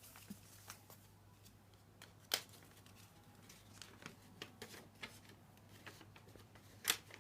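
Sheet of paper being handled and creased: faint rustles and scattered small clicks, with two sharper snaps, one about two seconds in and one near the end.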